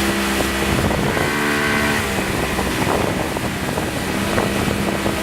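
Motorised watercraft engine running steadily at speed, with wind buffeting the microphone and rushing water.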